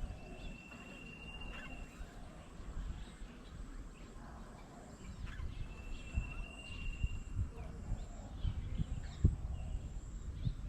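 Outdoor animal call: a high, steady, whistle-like note held about a second and a half, sounding twice, about five seconds apart. Under it runs low rumbling with scattered thumps that grow busier in the second half.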